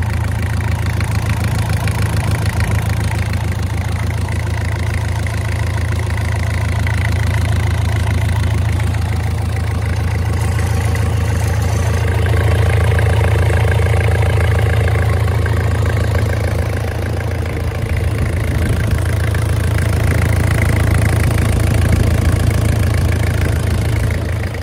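Isuzu 4JG2 four-cylinder diesel engine running steadily, loud, its level swelling a little about halfway through and again near the end.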